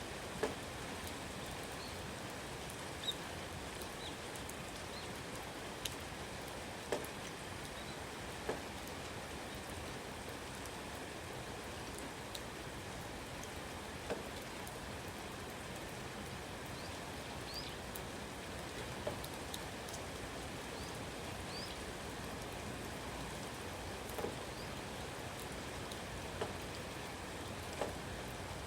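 Steady rain falling, with a dozen or so louder single drops striking close by at irregular intervals. Faint short high bird chirps come now and then.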